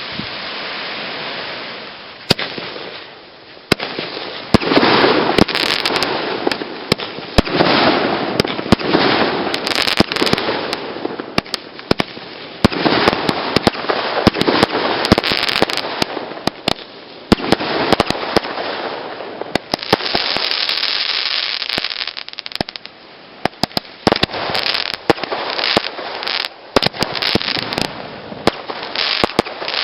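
Consumer fireworks going off in a rapid barrage: many sharp bangs mixed with spells of crackling and hiss, the longest hissing spell about twenty seconds in.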